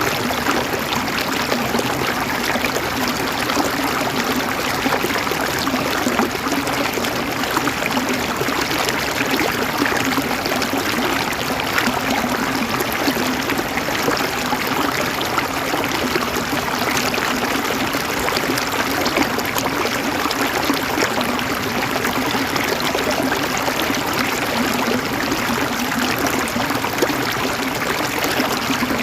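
River water flowing and gurgling over rocks, a steady rushing with small splashes.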